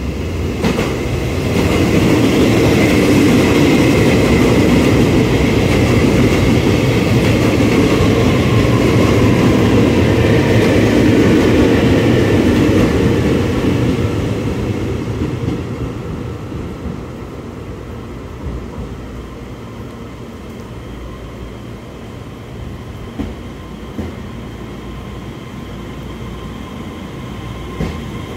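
A train running along the station platform: its rumble builds quickly, stays loud for about twelve seconds, then fades away to a lower steady rumble with a few light clicks.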